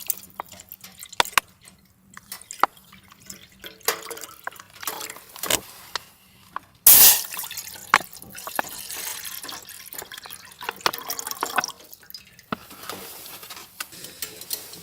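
Water dripping and splashing, with scattered short knocks, and a sudden louder rush of noise about seven seconds in.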